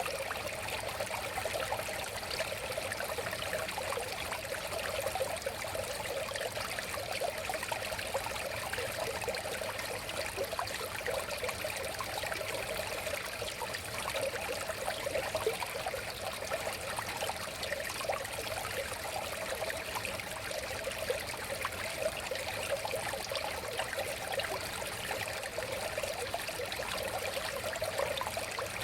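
River water flowing and babbling steadily, a constant even rush with a dense flicker of small splashes.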